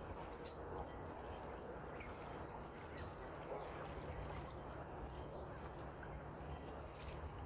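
Faint outdoor ambience with birds: a steady low background noise, a few soft calls, and one short, high, slightly falling bird chirp about five seconds in.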